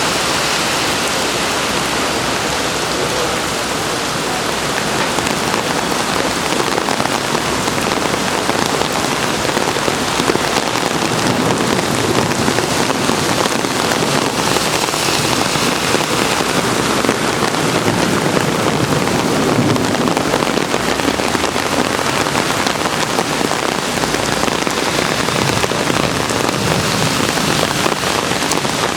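Rain falling hard and pattering on surfaces, a loud, steady hiss of drops that scarcely changes.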